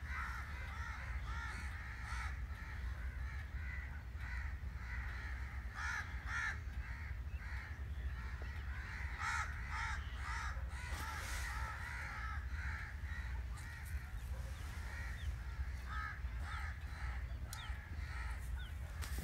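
Birds calling over and over in short clusters of calls, over a steady low rumble.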